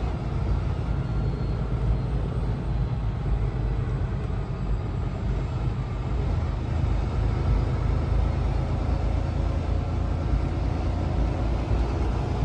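Tractor-trailer truck heard from inside the cab: a steady low rumble of engine and road noise.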